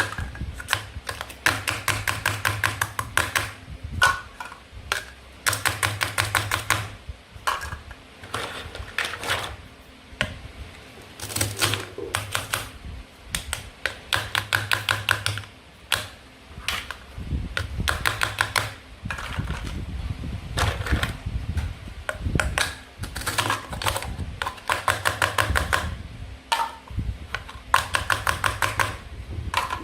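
Play-food toys being cut with plastic tools: repeated bursts of fast, rattling clicks, each about a second long, with short pauses between them.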